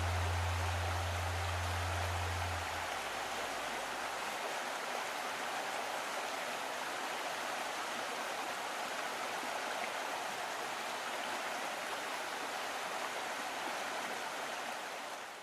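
Steady rushing water. A low held note from the song cuts off about three seconds in.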